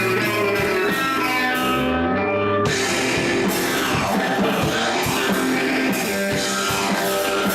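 Rock music played on guitar with a drum kit. The drums and cymbals drop out briefly about two seconds in, then come back in.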